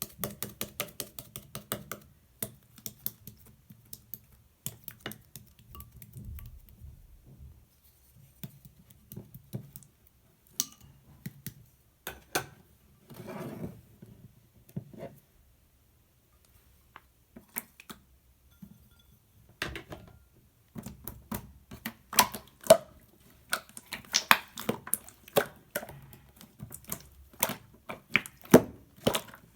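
Slime being squeezed, stretched and poked by hand, giving irregular sticky clicks and crackly pops, with a lull of a few seconds about halfway through and denser clicking near the end.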